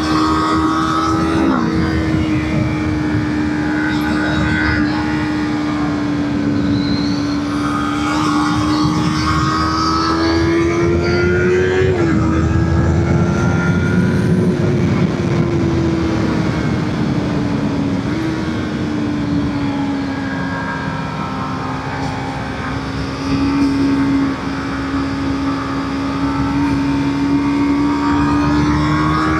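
Motorcycle engine running at fairly steady revs while riding, its pitch drifting slowly up and down with brief dips about 12 and 18 seconds in, over a steady rushing noise.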